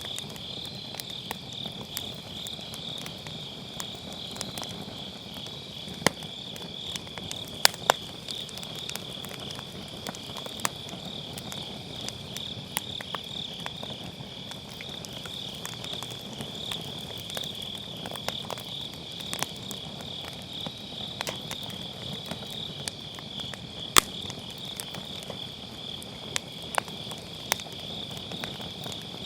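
Crickets and other autumn grass insects calling in a steady, pulsing chorus, over a wood fire that crackles with scattered sharp pops, the loudest about 8 seconds in and again near 24 seconds.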